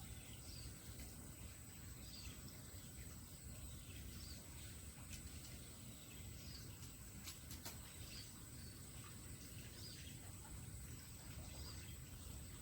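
Faint outdoor ambience: a steady, high-pitched insect drone with a short high chirp repeating about once a second, over a low rumble, with a few soft clicks in the middle.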